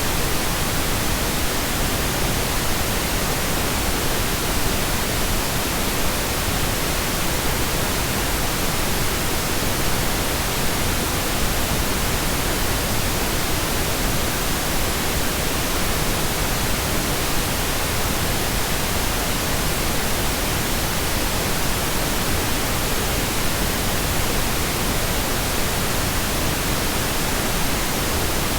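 Pink noise: a steady, even hiss across all pitches, unchanging throughout.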